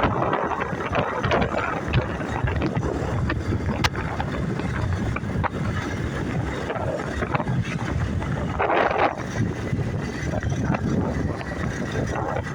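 Wind buffeting the microphone on a moving motorbike, with the motorbike's engine and road noise running steadily beneath.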